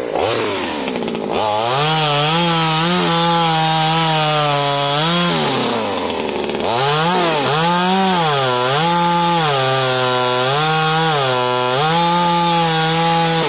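Small top-handle chainsaw running at high revs, its pitch dipping and recovering again and again as it works through wood. It drops back to idle briefly about a second in and again around six seconds in.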